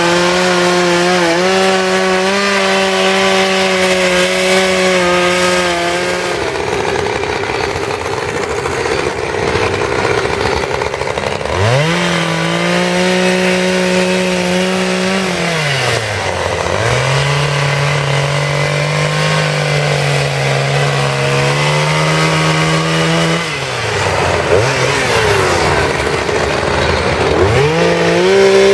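Two-stroke chainsaw running hard and cutting into wood. Its engine note sags under load and drops briefly several times in the second half as the throttle is eased and opened again.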